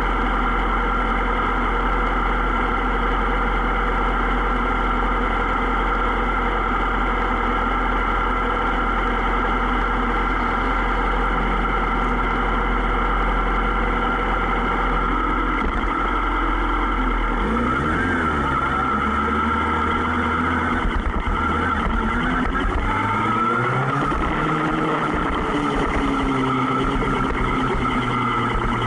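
Superbike engines running while riding, steady at first; from about halfway through, the engine pitch rises and falls repeatedly as the revs change.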